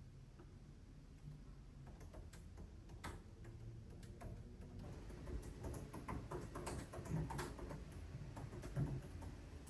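Light, irregular clicks and taps, sparse at first and coming thicker from about halfway through.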